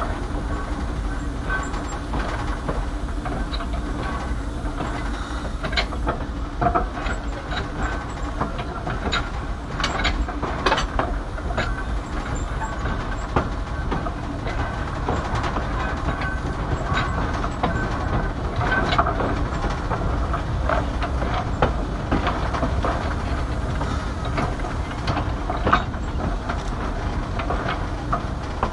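Train rolling along the track: a steady rumble with scattered, irregular clicks and clanks from the wheels and cars.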